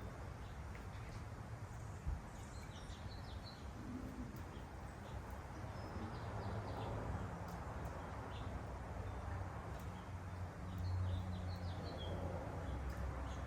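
Small birds chirping in short quick clusters, twice, over a steady low background rumble that swells briefly near the end.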